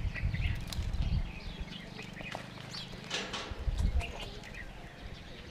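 Birds chirping, with many short high calls scattered throughout. Low rumbling buffets on the microphone in the first second and again about four seconds in.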